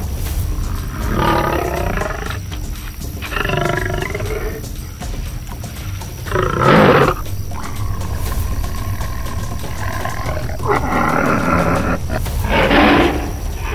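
Tiger roaring and growling, about five separate calls, the loudest about halfway through, over steady background music.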